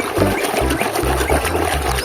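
Water running and splashing over a muddy toy motorbike as it is rinsed clean.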